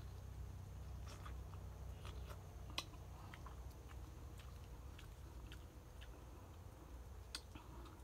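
A person biting and chewing fried chicken, with short irregular crackles and clicks from the crisp skin and meat being torn and chewed.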